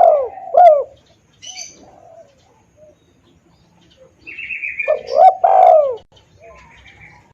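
Spotted dove cooing: a phrase of falling coo notes ends about a second in, and a second phrase comes around five seconds in. Higher, fainter chirps of other small birds fall between and around the coos.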